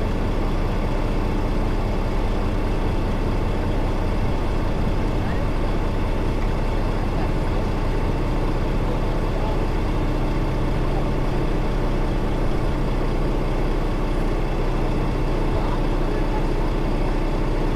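Semi-truck diesel engine running steadily at a low, even pitch, with a slight change in its tone partway through.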